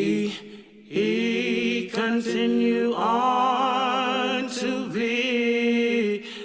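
Unaccompanied voices singing: long held notes with wide vibrato over steady lower held tones, with two short breaths early on and one long note held for about three seconds.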